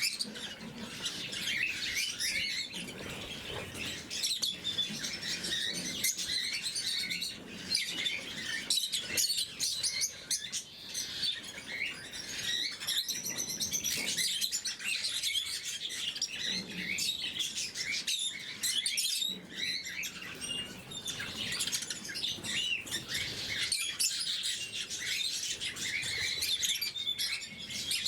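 Pet lovebirds chattering continuously: a flock of short, high chirps and squeaks overlapping without pause, with occasional wing flutters and small clicks.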